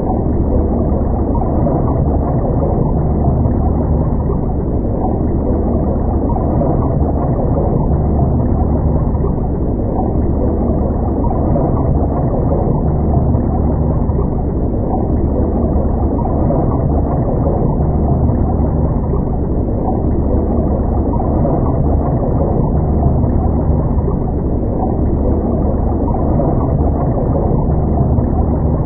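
Steady, muffled low rumble of water noise picked up by a camera underwater, with nothing high-pitched in it.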